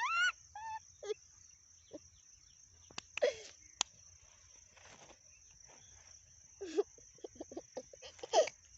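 A small child's high-pitched giggling in short bursts, ending in a quick run of about eight laughs near the end. A steady high cricket chirr runs underneath.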